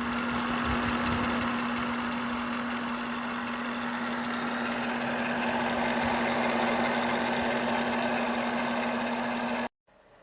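Ceramic space heater's fan running: a steady rush of air over a constant low hum, stopping suddenly near the end.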